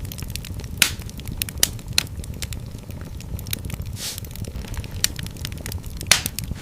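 Wood fire in a fireplace: a steady low rumble of flames with frequent sharp crackles and a few louder pops at irregular times.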